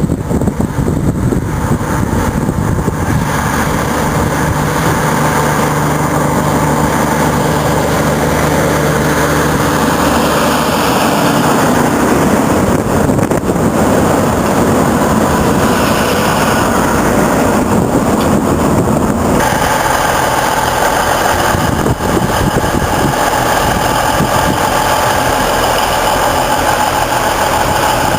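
A heavy truck's engine running steadily. Its note shifts about a third of the way in and changes again about two-thirds of the way through.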